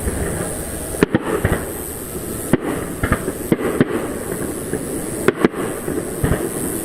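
Fireworks display: aerial shells bursting in sharp bangs, about six of them, some in quick pairs, over a steady busy noise.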